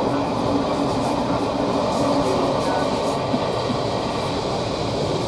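Steady rolling noise of a railway passenger coach running at speed, heard from inside the carriage: the rumble of wheels on rail with faint ticks and rattles.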